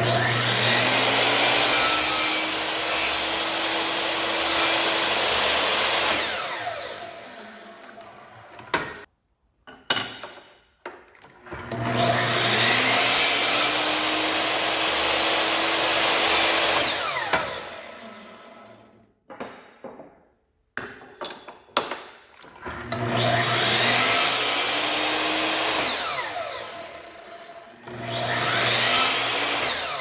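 An electric woodworking power tool is switched on three times; each time it spins up, cuts into wood and winds down after it is switched off.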